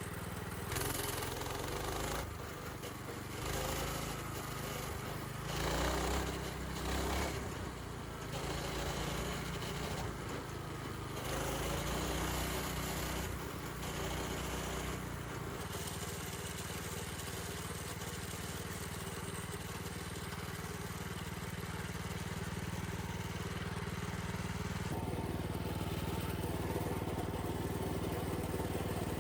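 Small minibike engine running while being ridden along a dirt trail, its pitch going up and down with the throttle through the first half, then holding a steadier drone.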